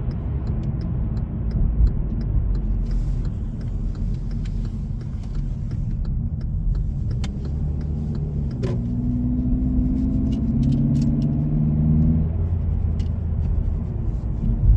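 2018 Hyundai Elantra's 2.0-litre four-cylinder engine and road noise heard from inside the cabin while driving. About two-thirds of the way in, the engine note rises as the car accelerates, then falls back to a steady cruise.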